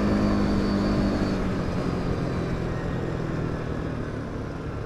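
CFMOTO CFORCE 550 quad bike's single-cylinder engine running while riding along, with a steady rushing noise beneath; the engine note is clear at first, then fades and the whole sound grows gradually quieter as the rider eases off.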